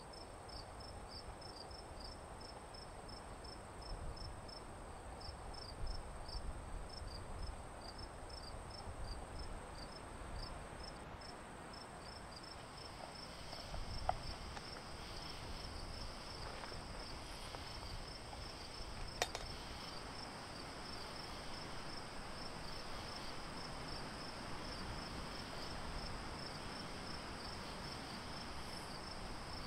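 Crickets chirping in a steady rhythm, about two high chirps a second, over a constant high insect note. Two faint sharp clicks come a little before and a little after the middle.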